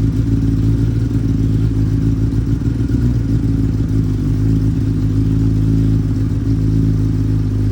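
Kawasaki Ninja ZX-10R inline-four engine idling steadily as it warms up after a cold start, with no revs.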